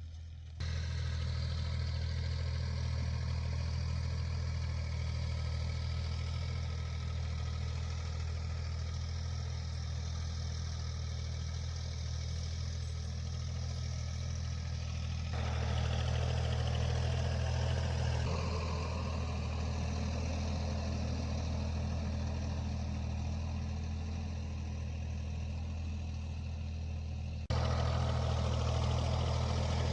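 Tractor engine running steadily at a low, even drone while ploughing. Its tone and level shift abruptly about half a second in, around halfway through and again near the end.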